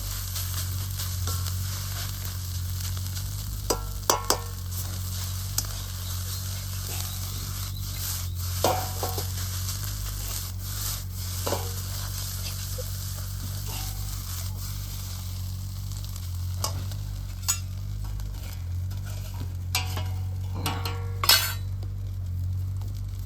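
Fried rice sizzling in a hot iron wok, stirred with a metal ladle that scrapes and knocks against the wok from time to time, some knocks ringing briefly.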